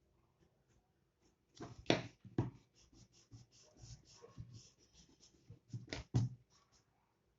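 Pencil scratching on drawing paper in a quick run of short strokes, with a few louder taps among them, starting about a second and a half in and stopping near the end.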